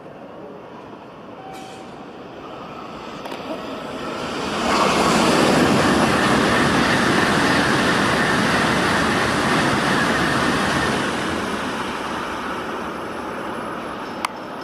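Tokaido Shinkansen train passing through the station at speed without stopping, a rush of air and wheel noise. It builds, jumps sharply to full loudness about five seconds in, holds for about six seconds, then fades.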